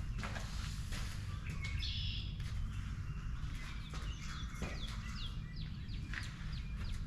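Small birds chirping, with many short, quick falling chirps, over a steady low rumble.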